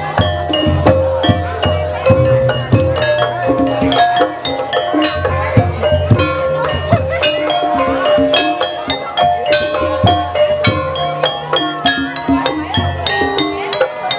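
Javanese gamelan music for an ebeg horse-trance dance: struck tuned percussion plays a busy melody of short stepped notes over a low drone, with many sharp strikes.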